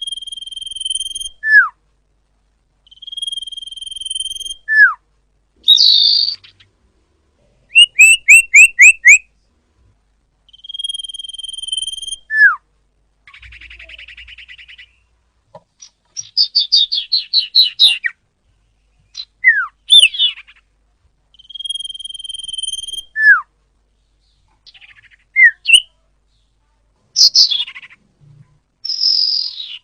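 Common iora (cipoh) singing. A long, steady whistle ends in a quick downward-sliding note, and this phrase comes four times. Between the phrases are a fast run of five short down-slurred notes and several chattering, buzzy trills.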